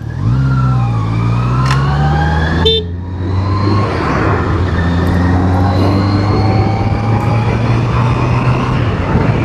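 Honda CBR650R's inline-four engine pulling under way: its pitch rises quickly at first, dips briefly about three seconds in, then climbs slowly and steadily, over a constant rush of wind.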